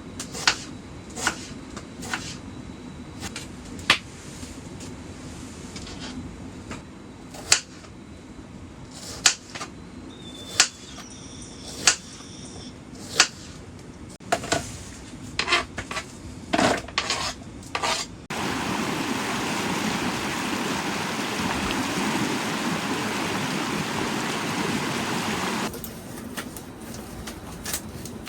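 Camp cookware and utensils being handled, giving scattered sharp clinks and knocks, then a steady hiss for about seven seconds that starts and stops abruptly.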